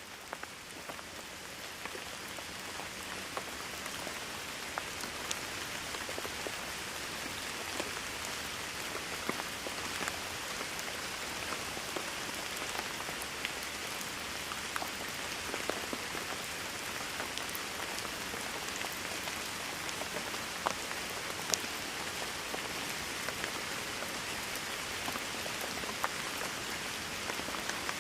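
Steady heavy rain falling on surfaces, a dense hiss with many individual drops ticking and splatting through it, swelling over the first few seconds as it fades in.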